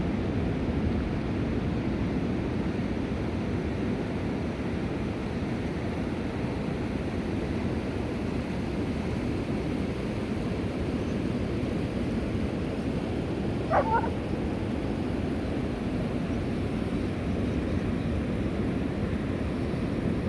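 Steady low rushing noise throughout, with a single brief gull call in two quick parts about two-thirds of the way in.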